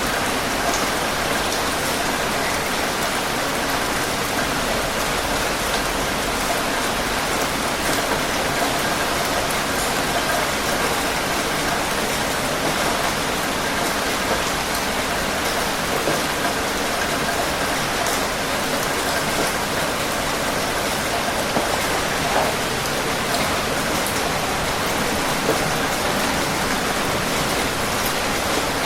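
Steady rain falling on a surface, a dense even patter with occasional distinct drops.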